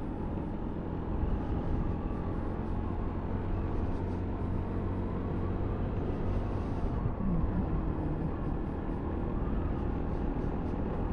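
Sinnis Terrain 125cc single-cylinder motorcycle engine running steadily under way, with road and wind noise.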